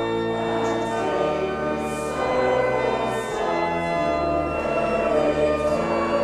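Choir singing with long held notes that change every second or so.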